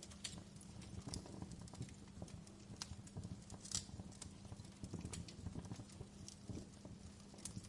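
Wood fire crackling in a fireplace: irregular sharp pops and snaps over a steady low hiss of the flames, with one louder pop a little before the middle.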